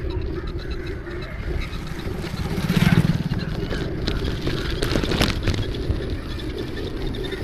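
Road noise from a bike ride in traffic: a steady low rumble, with a louder swell as a vehicle goes by about three seconds in.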